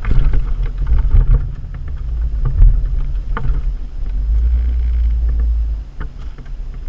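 Low rumble of a 4x4 on a rough off-road trail, with a few sharp knocks and rattles as it goes over bumps.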